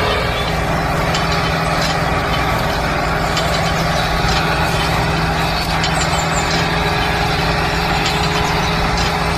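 Mini tractor's motor running steadily: a constant mechanical hum with a steady low tone, with no change in speed.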